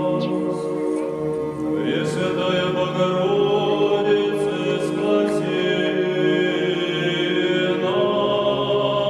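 Russian Orthodox church chant sung by a group of voices, holding long notes together and moving to new notes about eight seconds in.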